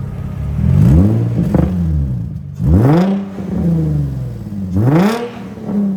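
Infiniti G36 with a modified exhaust revved from idle three times: each throttle blip climbs quickly in pitch and falls back to idle, about two seconds apart.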